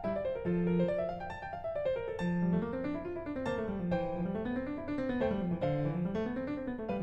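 Background piano music: notes rising and falling in flowing broken-chord patterns.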